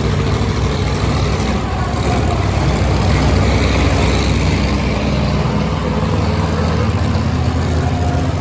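Monster truck engines running loud and steady: a deep rumble whose pitch shifts a little as they idle and are blipped.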